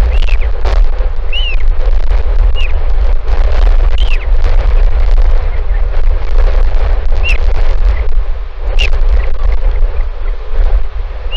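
Strong wind buffeting the microphone in a loud, gusty rumble. Short high chirps from a bird repeat every second or few seconds over it.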